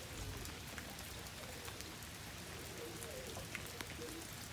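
Steady heavy rain, with many single drops ticking close by.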